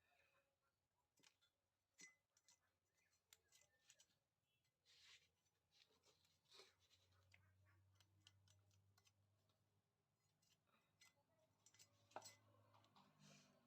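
Near silence: faint scattered clicks and light taps over a low hum.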